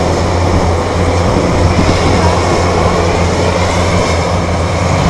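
Military aircraft engines running steadily and loudly on the airfield: a low, even hum with a high turbine whine over it.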